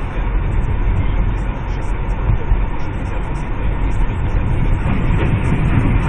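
Steady rumble of a car driving, road and engine noise heard from inside the cabin through a dashcam microphone.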